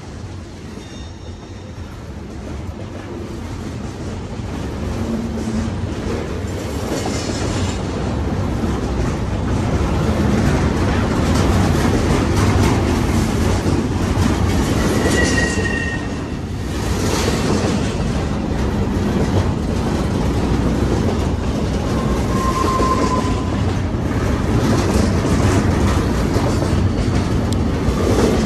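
Double-stack intermodal freight cars rolling past, a steady rumble of steel wheels on the rails that grows louder over the first ten seconds. Short squeals from the wheels sound about halfway through and again a few seconds later.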